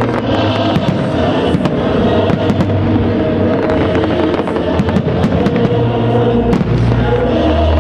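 Festive fireworks salute: shells bursting in a rapid, irregular string of bangs, over music playing.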